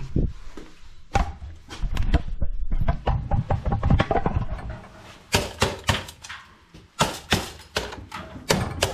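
Irregular knocks, clicks and thumps of hand work, with a cluster of sharp strikes in the second half.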